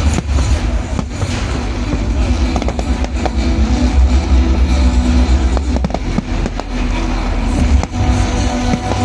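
Fireworks going off in quick irregular bangs and crackles over loud music with a heavy bass.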